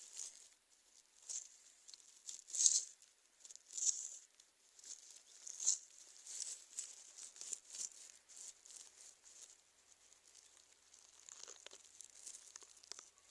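Soft, scattered rustling and crackling, as of dry forest-floor litter being disturbed, with a few louder crackles in the first half.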